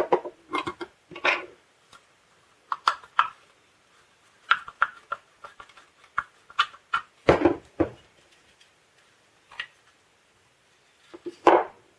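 Irregular clicks, taps and knocks of hard plastic tape-dispenser parts being handled and pried apart by hand, with two heavier knocks, one about seven seconds in and one near the end.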